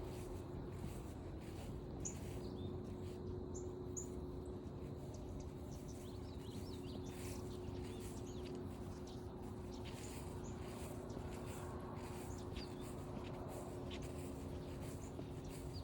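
Footsteps on a forest trail with a few short, high bird chirps about two seconds in and more birdsong near the middle, over a steady low hum.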